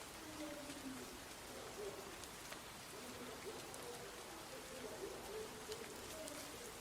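Doves cooing, several overlapping low coos throughout, over a faint steady hiss of light rain with scattered drops ticking.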